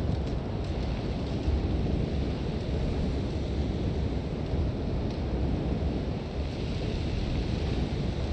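Sandstorm wind: a heavy, steady low rumble of wind with a hiss of blowing sand over it, swelling and easing a little.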